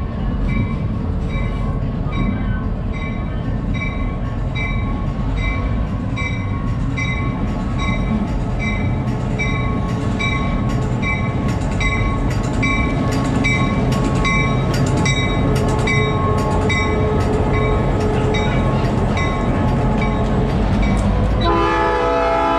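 Diesel locomotive running with a steady low rumble while its bell rings at about two strikes a second; near the end its multi-note air horn starts sounding.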